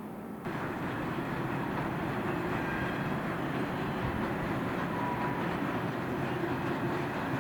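A train running past, with a steady rumble and rail noise and faint thin whining tones. The sound starts abruptly about half a second in.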